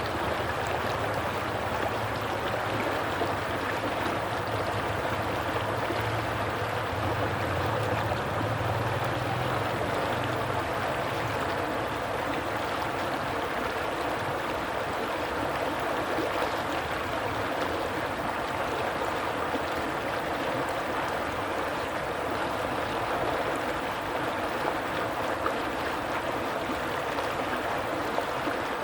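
A stream of water flowing steadily, an even, constant rush and gurgle. A faint low hum sits underneath for the first ten seconds or so, then fades out.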